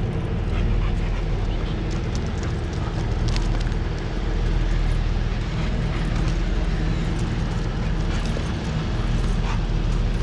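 Steady low rumble of a passenger train running on nearby tracks, with a hum of low level tones, over scattered small clicks and scuffs.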